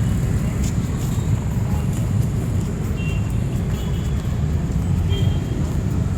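Steady low rumble of city street traffic, with a few faint short high tones now and then.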